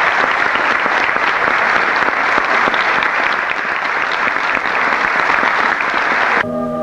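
Audience applauding, a dense steady patter of many hands clapping. It cuts off suddenly near the end, replaced by a held musical chord.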